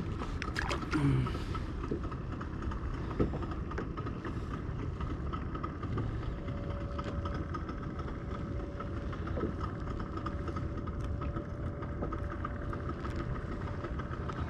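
Steady low rumble of wind and water on the open sea around a kayak, with a faint steady hum coming in about six seconds in and a few light knocks.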